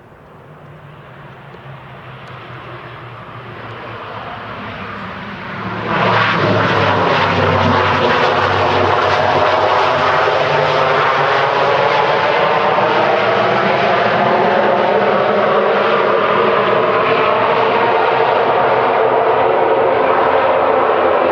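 Twin-turboprop Dornier 328-120 engines and propellers on a landing approach. The sound grows steadily louder, becomes much louder about six seconds in, and stays loud as the aircraft passes close.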